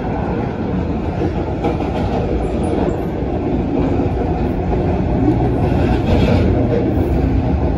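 MTR A-train electric multiple unit running at speed, heard from inside the carriage: a steady rumble of wheels on the rails that grows slightly louder.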